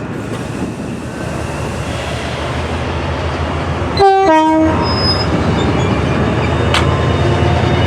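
Class 68 diesel locomotives approaching, their Caterpillar V16 engines rumbling and growing louder. About four seconds in, one short two-tone horn blast sounds, a higher note dropping to a lower one.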